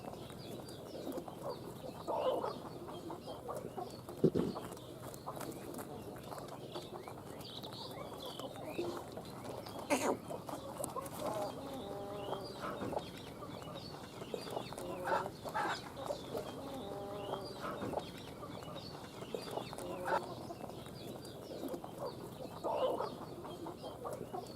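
Fowl calling on and off with short clucking calls, over faint higher bird chirps, with a couple of sharp knocks.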